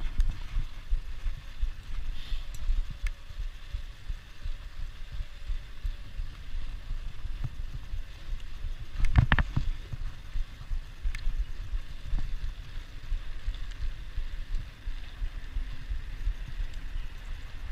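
Riding a bicycle: wind buffeting the microphone over tyre and road rumble, with a brief loud clatter about halfway through.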